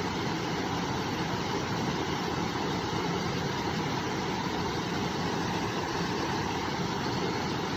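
Steady rush of a flowing river, an even noise with no change in level.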